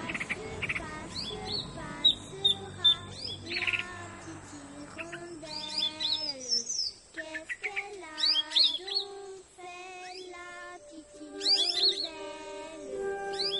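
A mix of bird calls: quick high chirps and lower, drawn-out calls that slide in pitch. Steady music tones come in near the end.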